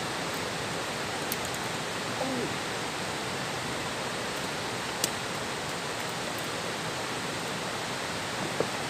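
Steady rushing of flowing river water, with a couple of faint clicks.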